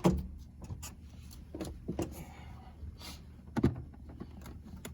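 Scattered clicks and knocks of hands working on a Mazda Protege's seat and its plastic trim: the seat sliding on its rails and trim pieces being handled. The loudest knock comes about three and a half seconds in.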